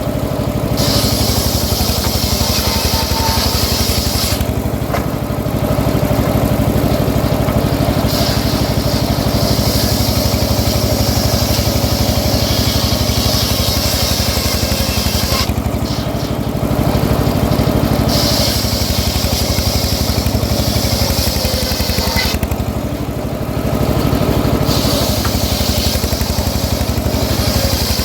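Engine-driven home-built circular sawmill running steadily while sawing teak logs. A higher hiss comes and goes over the steady engine note, fading out three times for a second or two.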